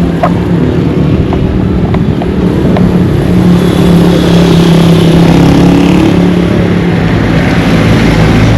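A motor vehicle's engine running close by, a steady low drone that swells louder in the middle.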